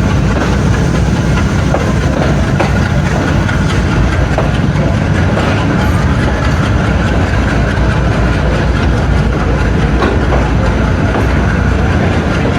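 Train running behind an AGE30 'Blue Tiger' diesel-electric locomotive: a steady, loud engine drone mixed with the rumble of the coaches, with scattered clicks from the wheels on the rails.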